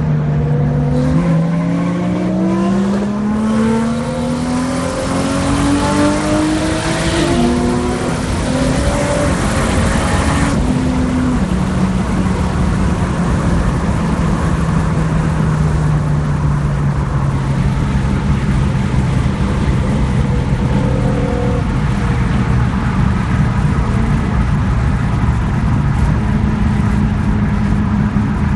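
Single-turbo Toyota Supra 2JZ inline-six heard from inside the cabin, pulling hard under full boost with the revs climbing through the gears. About ten seconds in the throttle is lifted suddenly, and the engine settles into a steady drone with the revs slowly falling.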